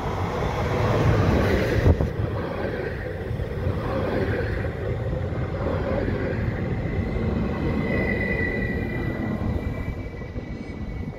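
Sm5 Stadler FLIRT electric commuter train running into a platform and braking to a stop, its wheels rumbling on the rails, with a knock about two seconds in and a thin high brake squeal in the second half as it slows.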